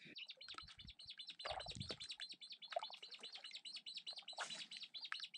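A small songbird chirping in a fast, even run of short high notes, several a second, with a brief low thump about a second and a half in.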